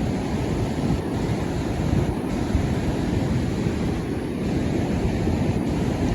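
Storm-surge waves breaking and washing onto the shore in a steady rush of surf.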